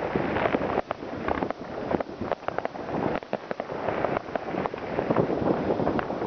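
Many fireworks going off at once: a continuous din of overlapping bangs and crackles, with some sharper reports standing out.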